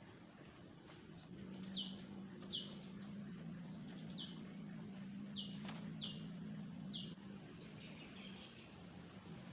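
A forest bird calling: six short whistled notes, each falling sharply in pitch, spaced unevenly, over a faint, steady low hum.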